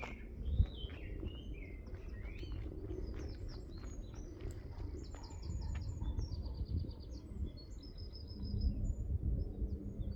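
Small birds chirping outdoors: short rising and falling calls at first, then quick repeated trilling notes through the middle, over an uneven low rumble with a few soft thumps.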